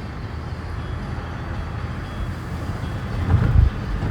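Steady low rumble of a car driving, heard from inside the cabin, with a brief louder low thump about three and a half seconds in.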